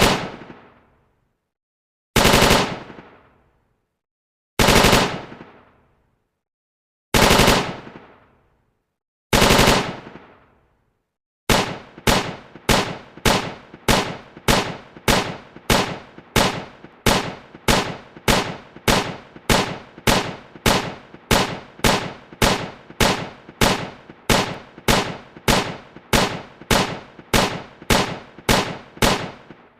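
Gunfire sound effects. Four separate loud bursts of fire come about two and a half seconds apart, each fading out over about a second. From about eleven seconds in, a long even run of single shots follows at about two a second, each with a short decaying tail.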